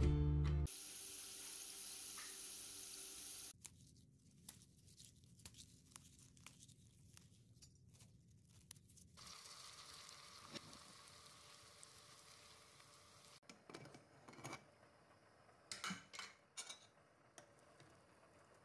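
Onions and mint leaves frying in oil in an aluminium pressure cooker: a soft sizzle, with scattered clicks and taps of stirring. A burst of music cuts off just at the start.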